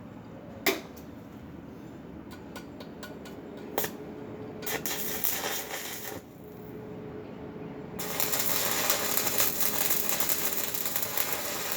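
Stick arc welding: a sharp click and a few scattered ticks, then the arc crackling in a short run about five seconds in, and again louder and steadily from about eight seconds in.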